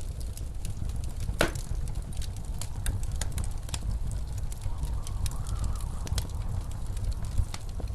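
Wood fire crackling with many small sharp pops and one louder pop about one and a half seconds in, over a steady low rumble of blizzard wind that rises into a faint wavering howl around five seconds in.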